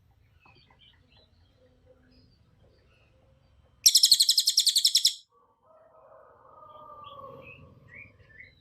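A cililin songbird singing: one loud, very rapid high trill lasting about a second and a half near the middle, with faint chirps before it and softer, lower calls after it.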